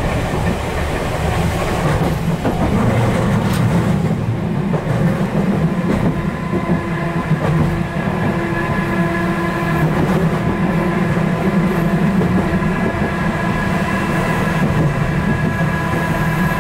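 Chikuho Electric Railroad 3000 series car running along the line, its wheels rumbling steadily on the rails. About six seconds in, a steady whine of several held tones joins the rumble.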